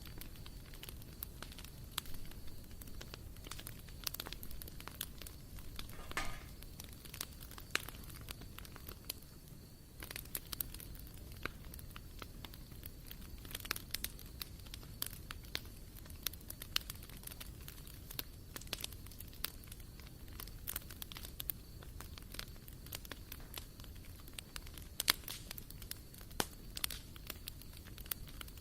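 Wood fire burning in a BBQ grill, crackling with irregular sharp pops over a low steady rumble. About six seconds in, a brief wavering whistle.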